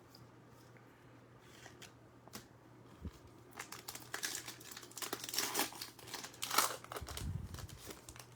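A trading-card pack's foil wrapper being torn open and crinkled by hand, in irregular crackly bursts that start about a third of the way in.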